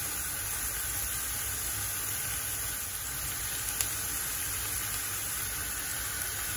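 Steady sizzle of chopped onion and garlic frying in olive oil in a frying pan.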